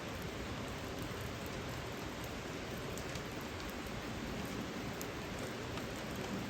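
Steady rain falling, with scattered single drops ticking sharply against the constant patter.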